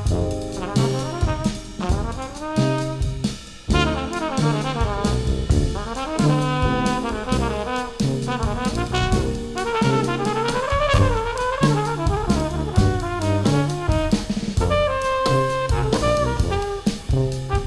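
Jazz brass ensemble playing: trumpets and flugelhorn with baritone saxophone and a tuba bass line, over keyboards and a drum kit keeping a steady beat.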